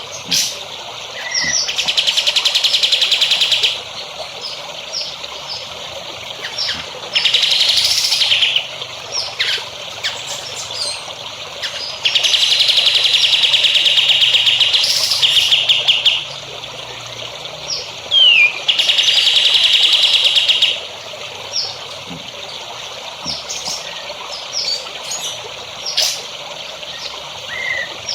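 A songbird giving four long, rapid trills, each lasting about two to four seconds, with short chirps between them, over a steady trickle of running water.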